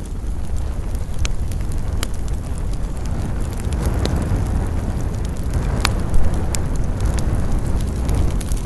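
Wood fire burning with a steady low rumble of flames and scattered sharp crackles and pops, one louder knock about six seconds in.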